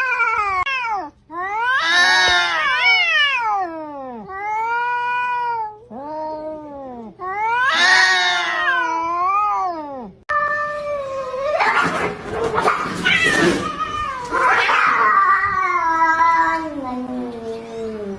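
Domestic cats caterwauling in a fight standoff: a string of long, drawn-out yowls that rise and fall in pitch. About ten seconds in it turns into a harsher, raspier screeching, then trails off in a slowly falling yowl near the end.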